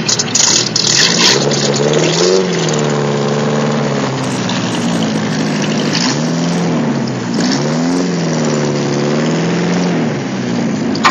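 Car engine running and being revved up and down several times, its pitch rising and falling.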